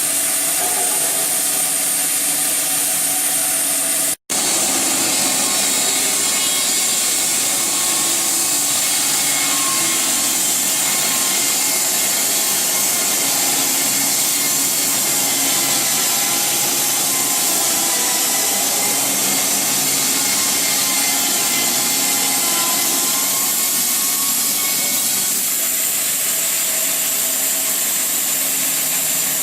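SAWSPEC 660 narrow-blade bandsaw mill running steadily, its blade cutting through a log. The sound cuts out completely for a split second about four seconds in.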